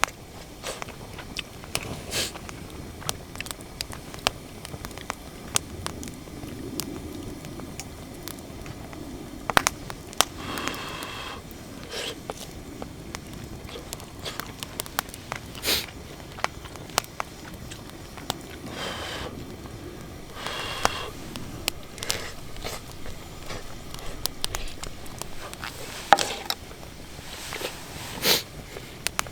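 Wood campfire crackling, with irregular sharp pops throughout and a few brief ringing clinks.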